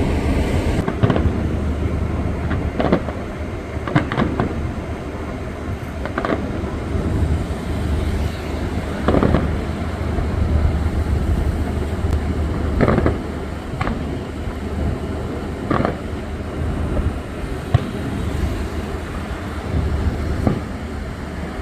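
Fireworks bursting in the air: about a dozen sharp bangs at irregular intervals of one to four seconds, over a steady low rumble.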